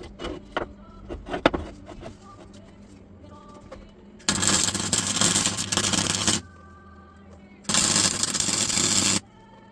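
MIG welder running two bursts of about two seconds each with a harsh crackle, each starting and stopping abruptly, as a weld is laid into the crack in a preheated cast-iron vice base. A few sharp clicks and knocks come first.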